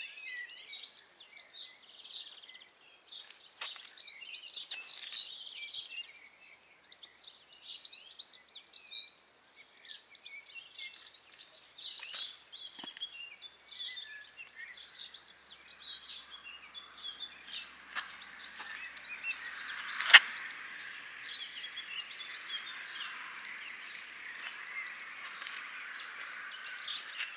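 Garden birds chirping and singing, many short calls running throughout. A few sharp clicks come through, the loudest about twenty seconds in, and a steady hiss comes in over the second half.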